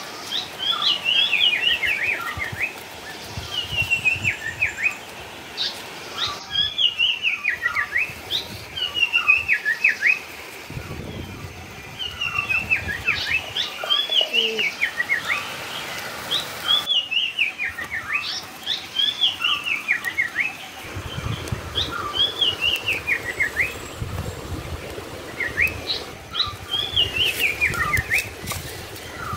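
A songbird singing the same phrase again and again: a quick run of chirps stepping down in pitch, repeated every one to two seconds.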